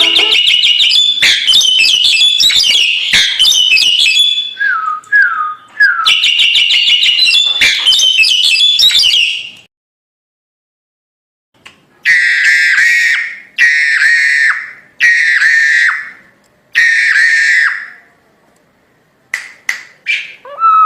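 Crested myna (jalak Hongkong) singing loudly: about ten seconds of rapid whistled and chattering phrases, a short pause, then four loud repeated whistled calls, ending with a few short notes and a falling whistle.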